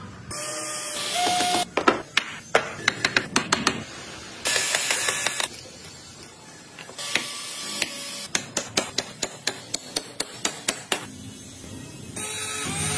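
Hand wood-carving work: short spells of rasping noise alternate with runs of quick, sharp taps, about five or six a second.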